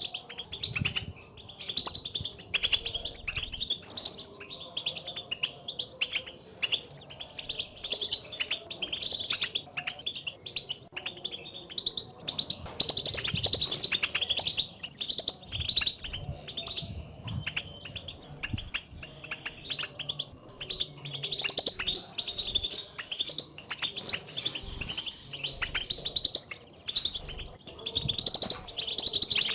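European goldfinches giving their twittering contact calls: many short, overlapping chirps, busiest about halfway through and again about two-thirds of the way in. These calls are used to stir a caged goldfinch into singing.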